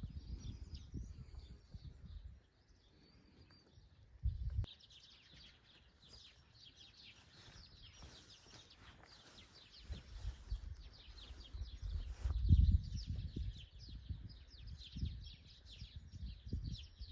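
Small birds chirping and twittering in quick, high notes throughout, over intermittent low rumbles that come and go, strongest a little past the middle.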